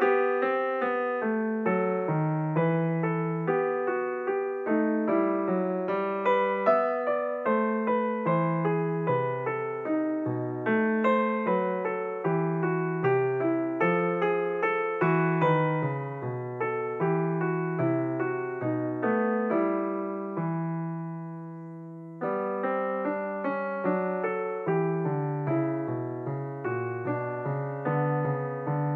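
Piano music: a steady stream of struck notes, with one held chord fading away about twenty seconds in before the playing picks up again.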